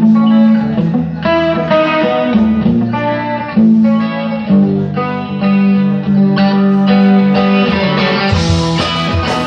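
Live band's guitar playing the opening of a song, notes and chords struck about once a second and left to ring. The sound brightens near the end.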